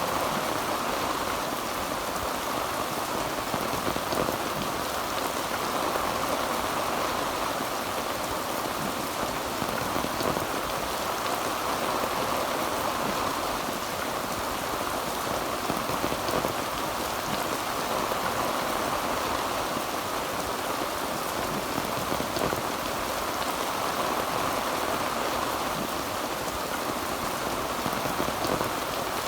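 Heavy rain falling on a tin roof: a steady, dense patter of drops.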